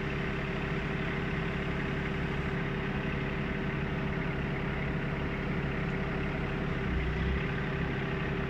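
Wolf WE26 mini excavator's diesel engine running steadily, with a brief swell in its low hum about seven seconds in.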